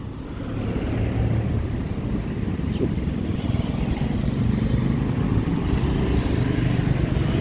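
Road traffic: a motor vehicle engine running close by, growing louder in the first second and then holding steady.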